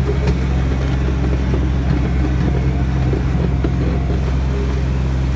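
Tractor engine running at a steady speed, a loud, even low hum.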